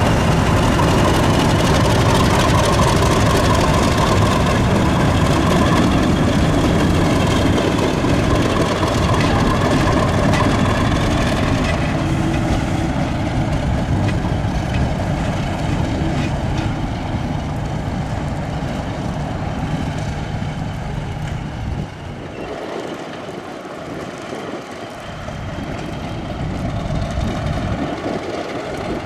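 British Rail heritage diesel locomotive engine running, loud at first and slowly fading, with a sudden drop about three quarters of the way through and a rise again near the end.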